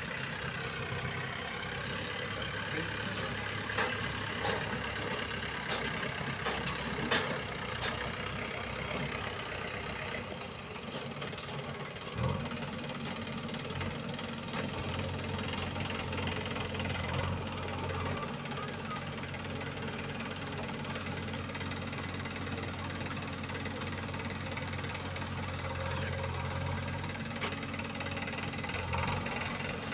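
Heavy diesel machinery engines running steadily, a deeper engine note coming in about twelve seconds in. A few sharp knocks or clanks sound in the first half.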